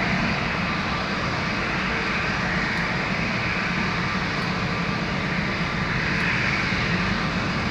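Jet engines of an Airbus A320neo (CFM LEAP-1A turbofans) running with a steady, even noise, holding the same pitch and level throughout.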